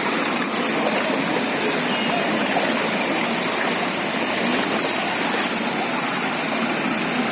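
Steady rushing of moving floodwater, an even noise with no breaks.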